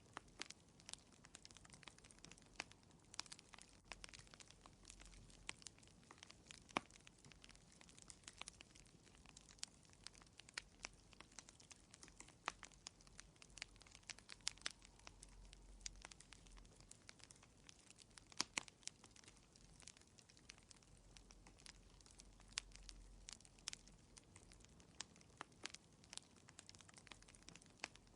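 Wood fire crackling in a fireplace: irregular sharp snaps and pops, several a second, over a faint low hiss.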